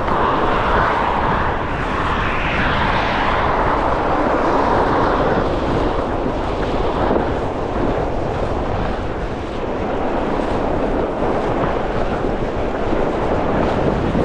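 Strong gusting wind blowing across the microphone, a loud, fairly steady rushing noise.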